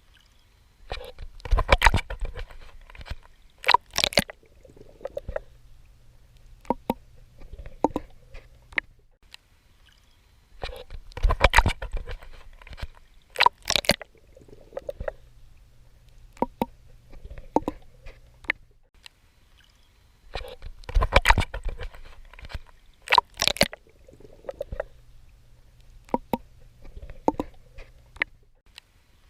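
Swimming in water: clusters of splashing strokes about every ten seconds, with smaller sloshes between them and a low steady rumble in the quieter stretches.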